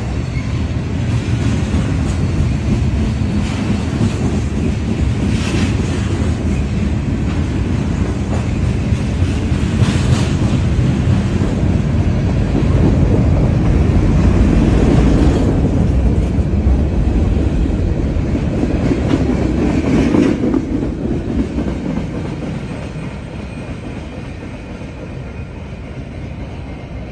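Freight cars of a CSX manifest train rolling past: a steady rumble with wheels clicking now and then over the rail joints. The sound drops off after about twenty seconds as the end of the train moves away.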